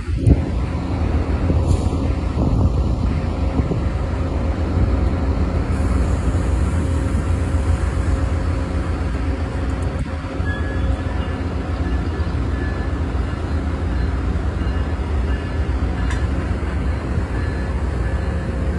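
VIA Rail passenger train running past on the rails and drawing to a stop alongside the platform, a steady rumble of the locomotive and coaches.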